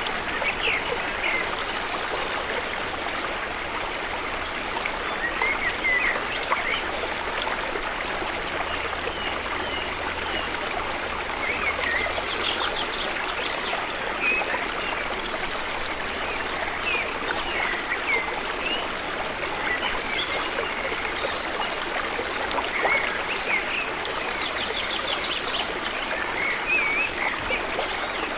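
River water flowing steadily, with birds chirping now and then and a few short trills above the rush.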